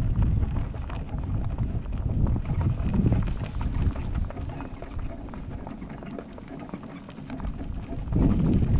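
A driving pony's hooves clip-clopping at a walk as it pulls a cart, over a steady low rumble.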